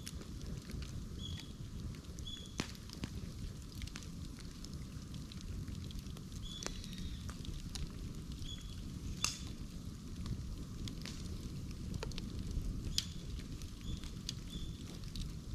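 Bamboo burning in an open fire: a steady low rumble of flame with scattered crackles and sharp pops, the loudest pop about nine seconds in, and a few brief high squeaks.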